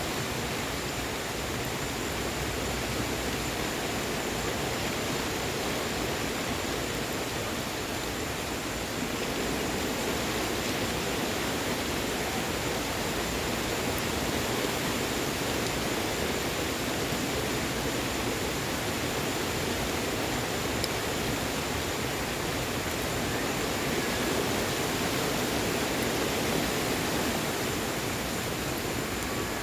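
Steady rain falling, with a wood fire in a patio fireplace giving an occasional faint crackle.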